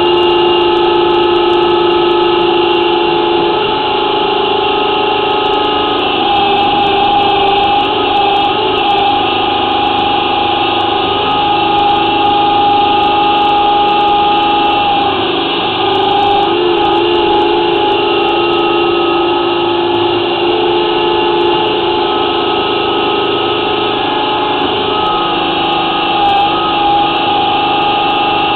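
Flexible-shaft drain-cleaning machine running steadily, its motor spinning the cutting chain inside a clay sewer line to cut out tree roots. The sound is a loud, even whine whose pitch wavers slightly now and then as the cutter meets the roots.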